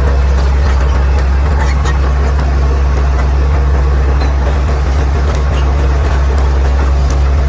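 Caterpillar D6R XL bulldozer's diesel engine running at a steady, even speed with a deep drone, and a few faint clicks over it.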